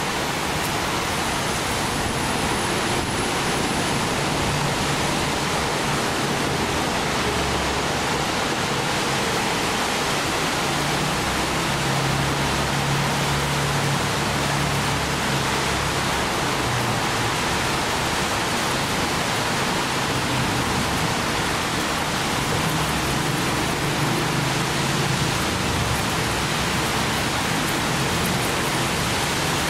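Steady hiss of rain with wind, holding an even level throughout, with a wavering low rumble underneath.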